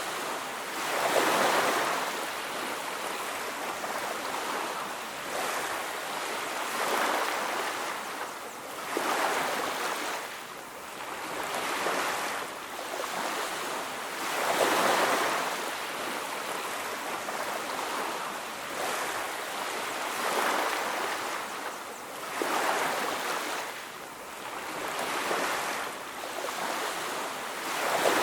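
Sea waves washing onto a beach: a continuous rushing surf that swells and falls back every two to three seconds.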